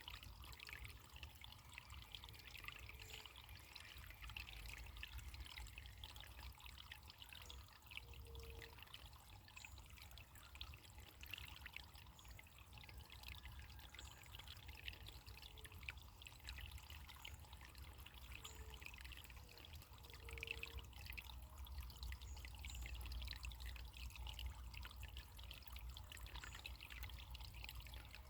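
Faint running water trickling and splashing steadily, as of a small stream, with a steady low rumble underneath.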